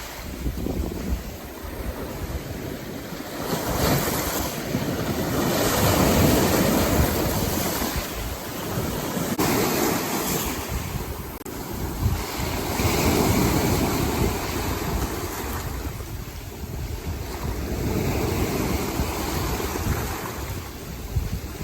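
Rough, storm-churned sea after a typhoon: waves surging and breaking in swells that rise and fall every few seconds, with wind buffeting the microphone.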